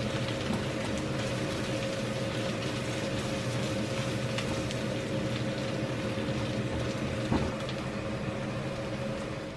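Smoked duck and kimchi sizzling as they are stir-fried in a nonstick wok, with a silicone spatula turning and scraping the food, over a steady hum. One knock of the spatula against the pan about seven seconds in.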